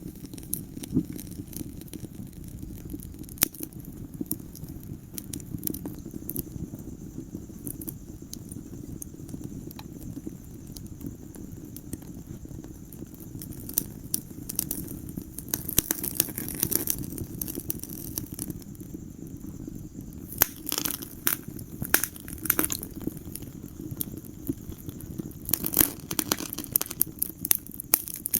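Wood fire in a fireplace crackling: a steady low rumble of burning with sharp pops and snaps, which come thicker in bursts around the middle and again near the end.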